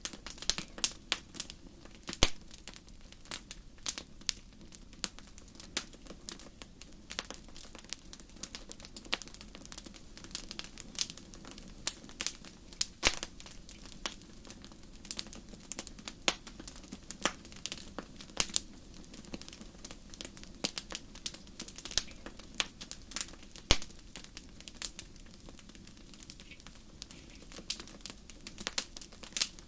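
Wood campfire crackling: irregular sharp snaps and pops, a few much louder than the rest, over a low steady hum of the burning fire.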